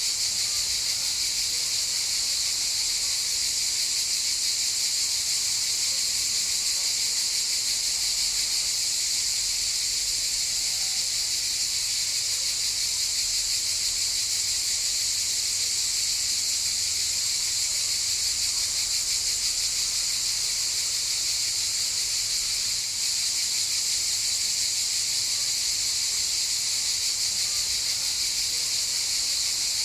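Chorus of cicadas buzzing, a continuous high-pitched drone that holds steady without a break.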